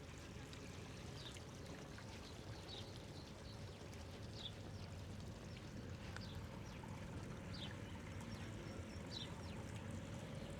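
Water pouring and trickling steadily from the old garden waterwheel, with a bird repeating a short, high, falling chirp about every second and a half.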